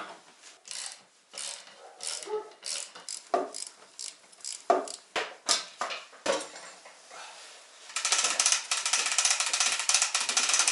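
Hand tools clanking on metal parts in a car's engine bay, then about eight seconds in a ratchet wrench starts clicking rapidly and steadily as fasteners are undone to strip the engine bay for engine removal.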